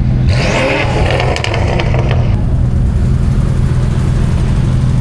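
Car engine running with a steady low rumble, with some extra higher-pitched noise in the first couple of seconds.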